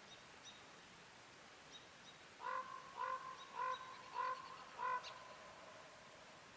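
A run of five turkey yelps, evenly spaced about two a second, starting about two and a half seconds in. Faint high chirps of small birds sound around them.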